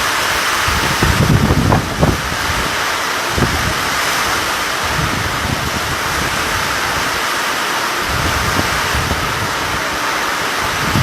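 Summer storm: heavy rain hissing steadily while strong wind gusts buffet the microphone, the strongest gust about one to two seconds in.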